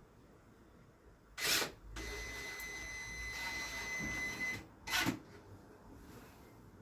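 A power drill-driver runs for about two and a half seconds with a steady high whine, driving a screw to fix a wooden ceiling strip. A short sharp knock or rattle comes just before it and another just after.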